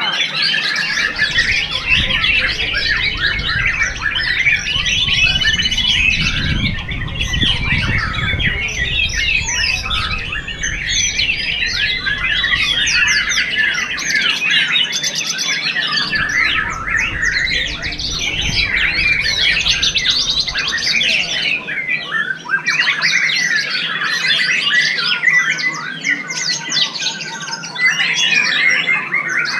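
White-rumped shama (murai batu) singing without pause: a fast, varied stream of whistles, trills and harsh notes. A low rumble comes and goes underneath.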